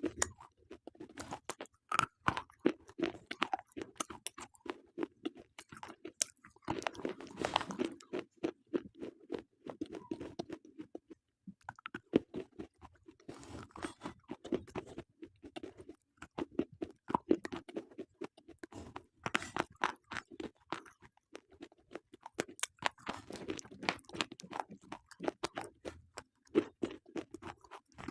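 Close-miked chewing of slate pencils: hard, brittle crunching as pieces are bitten and ground between the teeth, in repeated bouts of rapid sharp crunches.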